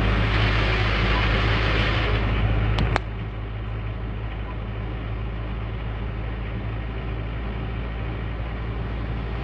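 Heavy Scania truck's diesel engine running with a steady low drone. Just before three seconds in come two sharp clicks, and the sound drops abruptly to a quieter, steady hum.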